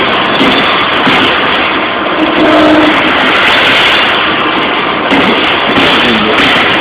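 Strippit 1000 SX CNC turret punch press running, punching 1.6 mm stainless steel sheet: a loud, steady, dense mechanical noise.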